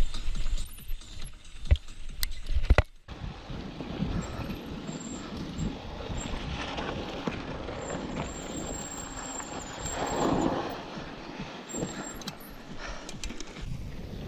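Mountain bike riding over a rough dirt trail: tyres rolling on loose ground and the bike rattling, with a few sharp knocks over bumps in the first few seconds.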